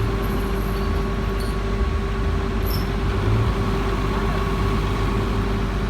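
Heavy vehicle engine running steadily, a low rumble with a steady whine over it.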